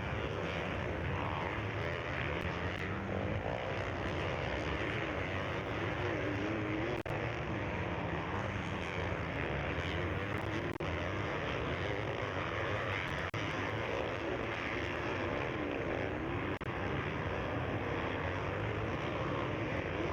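Several motocross bikes racing, their engines revving up and down in a continuous, overlapping drone.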